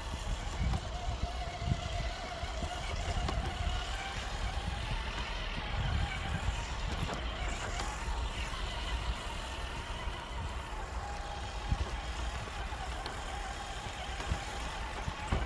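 Traxxas TRX-4 RC crawler's electric motor and drivetrain whining as it crawls, the pitch slowly rising and falling with the throttle, over a steady low rumble.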